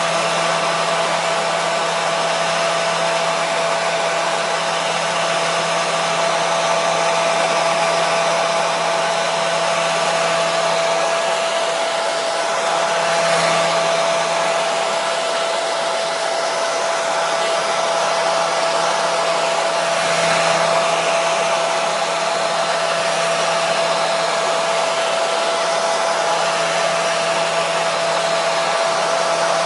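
Hair dryer running steadily: an even rushing of air with a steady motor whine over it, played as continuous white noise to soothe a baby.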